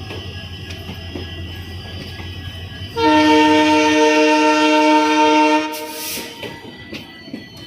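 WDG 3G diesel locomotive running with a low rumble, then about three seconds in its air horn sounds one loud multi-tone blast of nearly three seconds that cuts off, followed by a short hiss of air.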